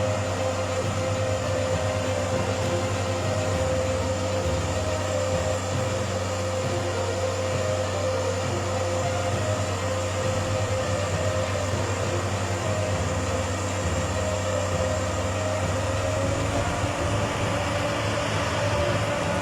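Heavy machinery running steadily, with a deep engine hum and a constant whine that shifts slightly up in pitch near the end: the machinery at work crushing seized motorcycles.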